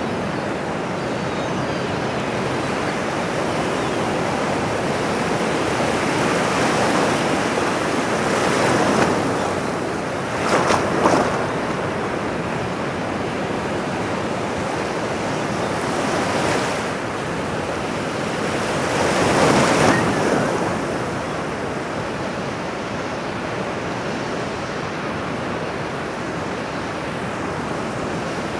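Ocean surf washing on a shore: a steady rush of water, with several waves swelling and breaking louder, the sharpest crash near the middle.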